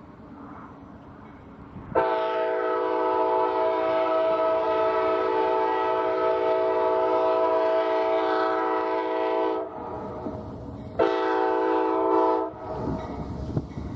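Amtrak locomotive's multi-chime air horn sounding at a grade crossing: one long blast of about eight seconds, then a short blast a second and a half later. Near the end the rumble of the approaching train rises.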